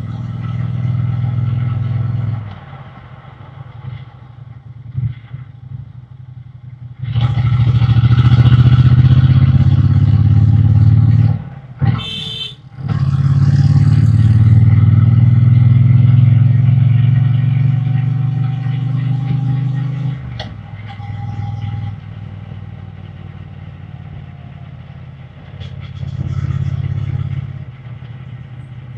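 Triumph Bonneville T120's parallel-twin engine and exhaust on the road, opening up hard twice and pulling strongly for several seconds each time, then easing back to a lower, quieter run, with a short throttle blip near the end. A brief high-pitched sound cuts in during the short lull between the two pulls.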